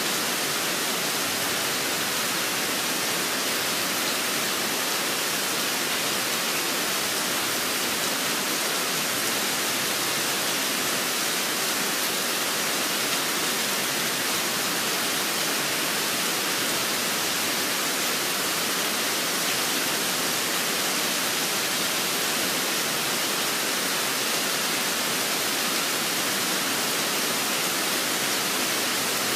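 Steady rainfall, an even hiss with no breaks or changes.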